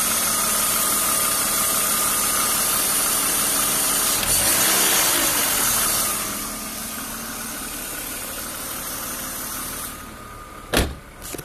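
BMW M52B28 2.8-litre straight-six running at idle, with a strong hiss that the owner traces to the area under the intake manifold, and a rattle from the engine that he suspects comes from old oil rather than the VANOS. About four seconds in the engine revs briefly and falls back. From about six seconds it sounds quieter, it fades further near the end, and there is a sharp knock just before the end.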